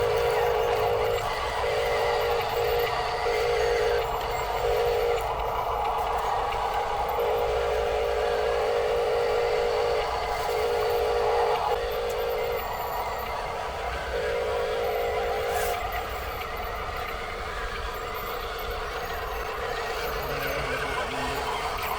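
Radio-controlled toy construction vehicle's small electric motor and gearbox whining in stop-start spurts as it is driven, each run lasting from under a second to about three seconds, mostly in the first two-thirds.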